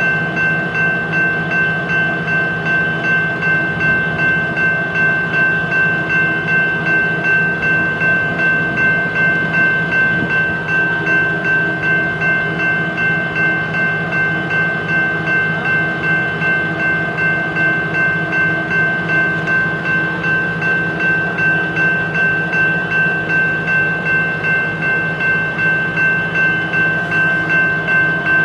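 BNSF diesel freight train running steadily, with a constant high whine and an even beat about twice a second.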